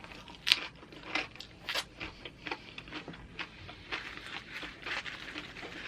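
Close-up chewing of loaded nachos: crisp tortilla-chip crunches and mouth clicks, irregular, a few each second.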